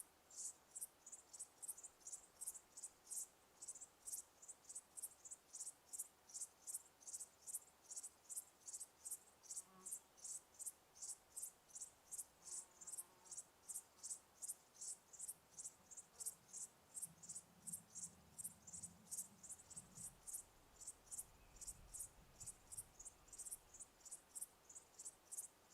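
Cricket chirping steadily, short high-pitched chirps repeating about twice a second.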